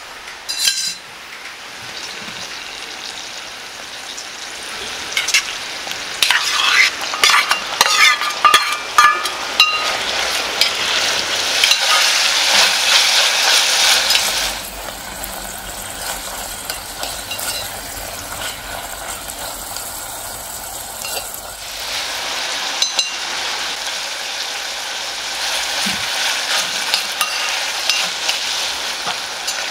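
Chopped green onions and diced pork sizzling in oil in a mini cast-iron cauldron (gamasot) as they are stirred, the utensil clinking and scraping against the pot. There is a run of sharp knocks several seconds in. The sizzle is loudest about halfway, drops for several seconds, then picks up again.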